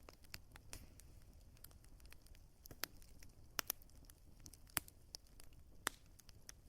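Wood fire crackling: irregular sharp pops and snaps over a soft low rumble of burning, with the strongest pops about three and a half, five and six seconds in.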